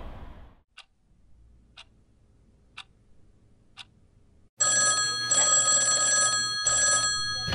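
Four faint ticks about a second apart, then a black rotary desk telephone's bell starts ringing loudly about four and a half seconds in.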